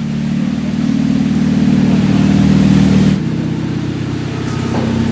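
Honda Civic's 1.8-litre R18 four-cylinder under acceleration through a custom exhaust with the mid silencer and backbox removed. The note builds for about three seconds, then drops suddenly as the throttle comes off, and runs on at a lower level.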